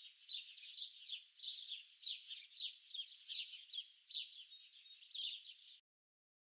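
Small songbirds chirping: clusters of quick, high-pitched falling notes repeating a little under twice a second, cutting off abruptly near the end.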